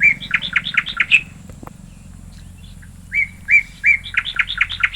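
A bird singing two phrases, each a few clear whistled notes followed by a quick run of about eight shorter notes, over a steady low hum.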